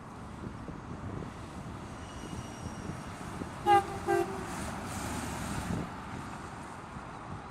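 A car horn tooting twice in quick succession, two short beeps about half a second apart, over the steady rumble of a car driving away.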